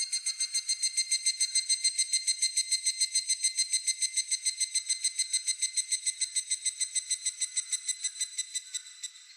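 Higurashi (evening cicada) calling, a fast run of high pulses at about eight a second that slowly fades away near the end.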